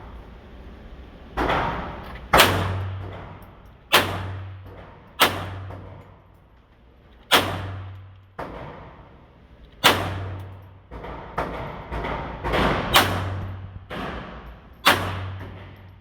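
Slow, irregular pistol fire from a Taurus TX22 .22 LR pistol: about a dozen sharp shots a second or two apart, some fainter than others, each followed by a ringing echo.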